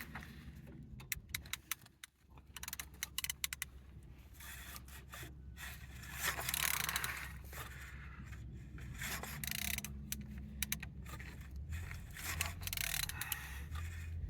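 Opel X12XE four-cylinder engine being turned over by hand with a wrench on the crankshaft: repeated metallic clicks and scraping of the tool, as the engine is checked for free rotation and compression.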